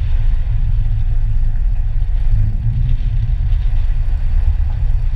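Cessna 150's four-cylinder Continental O-200 engine throttled back to idle for landing, a steady low rumble heard from inside the cabin.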